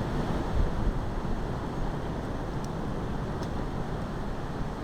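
Strong wind blowing across the microphone: a steady low rumble of wind noise with gusts.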